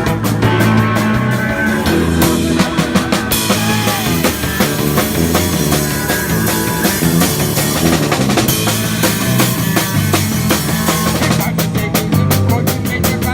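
Punk rock band playing an instrumental passage with no singing: a steady drum-kit beat under bass and guitar, with a fuller, denser stretch from about three to eight seconds in.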